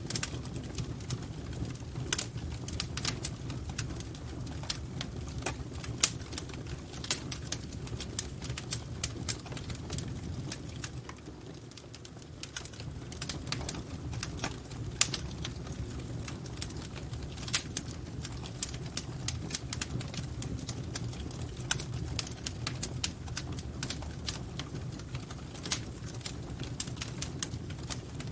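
Wood fire crackling in a fireplace: irregular sharp pops and snaps over a steady low rumble, which eases briefly about halfway through.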